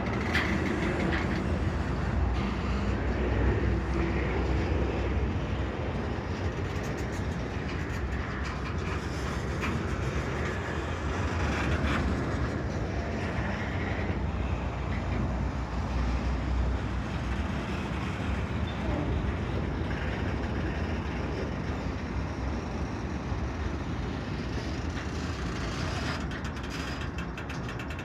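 Freight train rolling past: a steady low rumble from the moving cars, with scattered clicks from the wheels and running gear.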